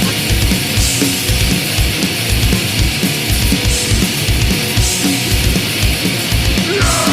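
Recorded Swedish crust punk: a dense wall of distorted guitars over fast, steadily pounding drums and cymbal wash, in an instrumental stretch, with a shouted vocal coming in right at the end.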